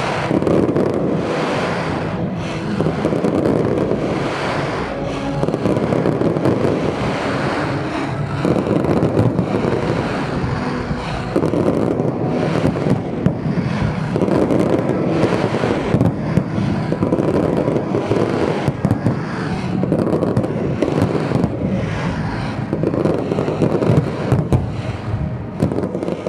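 Massed fireworks barrage going off continuously: a dense run of bangs and crackling from many shells and low-level effects firing at once.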